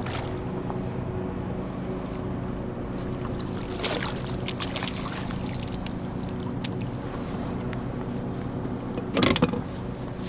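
Steady low hum with scattered small clicks and light water sounds while a bass is fought from a kayak, and one louder sudden splash-like burst near the end.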